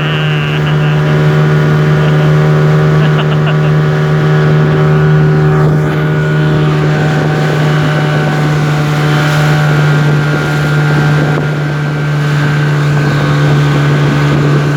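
Speedboat engine running at a steady pitch under way, heard from on board, with water and wind rushing past.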